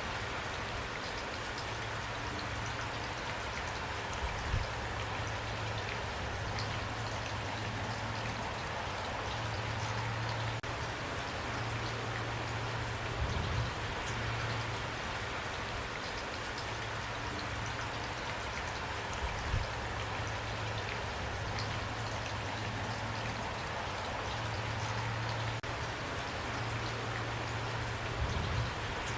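Steady rain with individual drops pattering on a surface, a few brief louder drops or thumps now and then.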